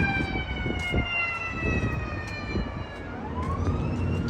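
A siren wailing, its pitch falling slowly and then starting to rise again near the end, over the low rumble of an engine with a few light knocks.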